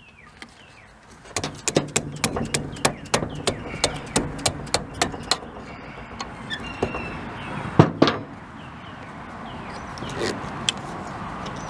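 Dead blow hammer tapping on a screwdriver wedged into the housing seam of a Blackmer TDX2D vane pump, working around the seam to split the end cover off. The taps come about two or three a second, then stop, with one harder strike about two-thirds of the way through and a few lighter taps near the end.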